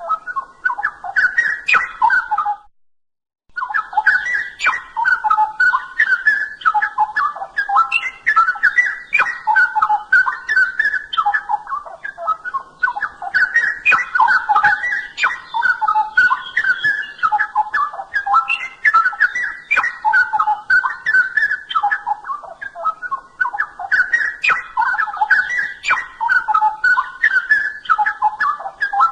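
Straw-headed bulbul (cucak rowo) singing: a loud, continuous run of rich, warbled phrases, breaking off briefly for about a second near the start, then going on without pause.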